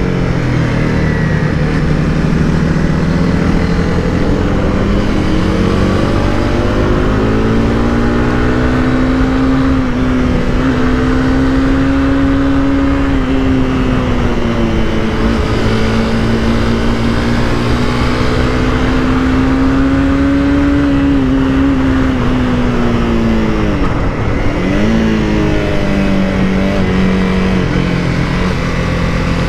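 Honda CBR300R's single-cylinder engine heard on board while riding. Its pitch climbs and falls slowly with the throttle, and late on the revs drop sharply and come straight back up. A steady rush of wind and road noise runs under it.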